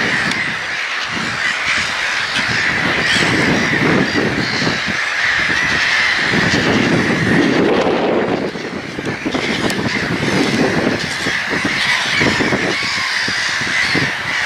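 A flock of gulls calling, many cries overlapping without a break.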